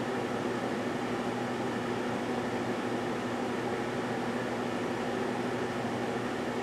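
GE Dual Wave microwave oven running mid-cycle: a steady, even hum with fan noise.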